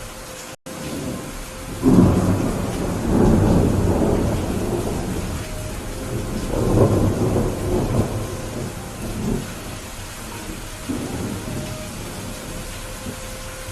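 Steady rain with a peal of thunder that breaks in suddenly about two seconds in and rolls on in several swells before fading away. The sound cuts out for a split second just under a second in.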